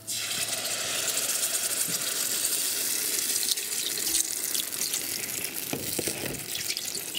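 Blended tomato salsa sizzling as it is poured into a pan of hot oil to be fried. The hiss starts suddenly and stays loud and steady.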